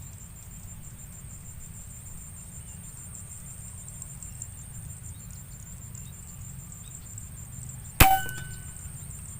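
A single sharp air rifle shot about eight seconds in, with a short ringing tail, over a steady low background hum.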